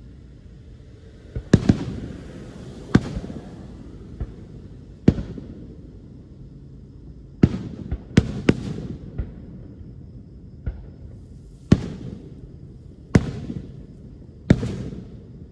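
Aerial fireworks shells bursting, about a dozen sharp booms at uneven intervals, some in quick pairs, each followed by a short rumbling echo.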